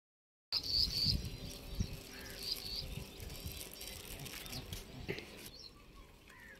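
Birds chirping in short high calls over an irregular low rumble.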